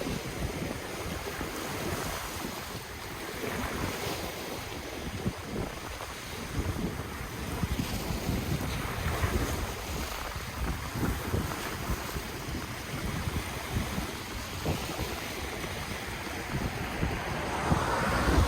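Ocean waves washing onto the shore in a continuous swell, with wind buffeting the microphone. A wave builds louder near the end.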